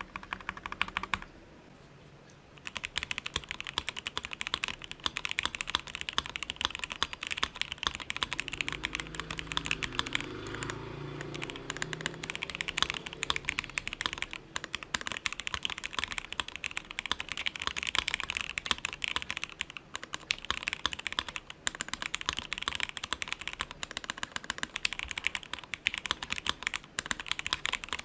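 Fast, continuous typing on a Crylic60 60% mechanical keyboard fitted with Gateron Black KS-3 linear switches: a dense stream of keystroke clacks. A brief burst of typing opens, then a pause of about a second and a half before the steady typing starts.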